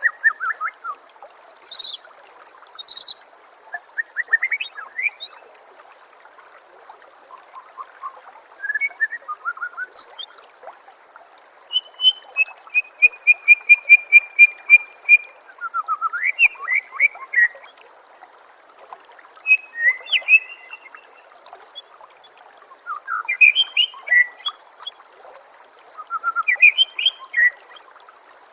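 White-rumped shama (murai batu) singing varied whistled phrases and slurs, with a fast run of repeated notes about halfway through, over a steady trickle of water.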